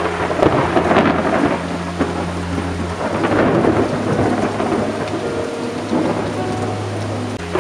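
Thunderstorm: thunder rumbling in swells over steady rain.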